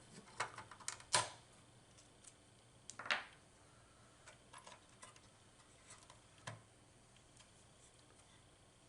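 Sparse small clicks and short scrapes as a socketed chip is pried out of an IGT S2000 slot machine circuit board and handled. The loudest click comes about a second in.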